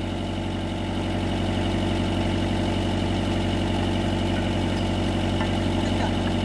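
Diesel engine of a Mitsubishi MS030 backhoe running steadily at a low, even speed, growing slightly louder about a second in.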